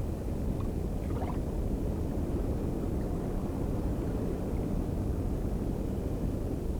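Steady low underwater rumble, a dull, even noise, with a couple of faint higher sounds about a second in.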